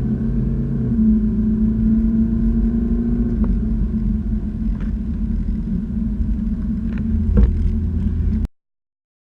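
BMW 520d's 2.0-litre four-cylinder diesel engine running under way, with road noise. The engine note changes pitch about a second in, there are a few light clicks later, and the sound cuts off suddenly near the end.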